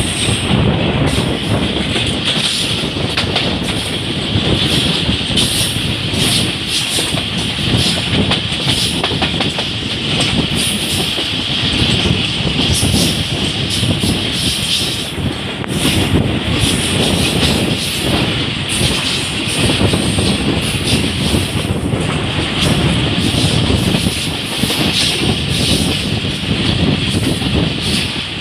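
Train running along the track, heard from on board: a steady rumble of wheels on rails with a hiss and frequent clacks from the rail joints.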